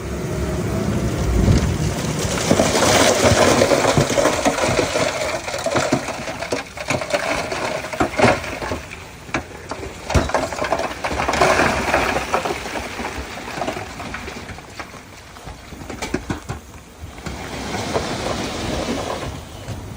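Earthmoving work with loose soil: a heavy machine running under a continuous rumble of rushing, tumbling earth, with many sharp clanks and knocks. It swells twice, a few seconds in and again about halfway.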